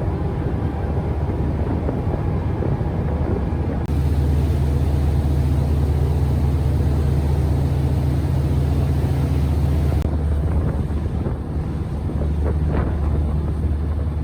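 A boat engine running steadily, a low rumble with wind buffeting the microphone. The rumble and hiss grow louder from about four seconds in and drop back about ten seconds in.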